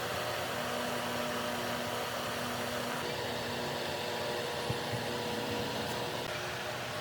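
A steady electric motor whir with a faint hum in it, the kind made by a running power tool or fan. Two short knocks come a little past the middle.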